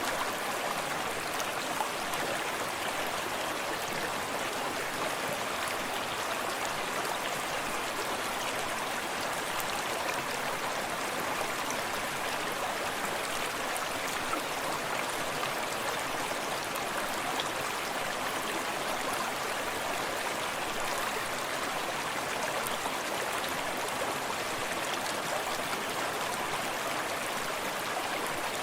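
A small forest stream running steadily over stones, a continuous rush of water with light splashes and trickles.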